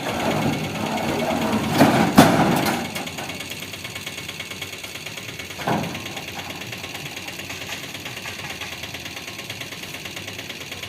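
A machine running steadily with a fast, even ticking texture. A few louder metallic knocks come about two seconds in, and one more comes near six seconds.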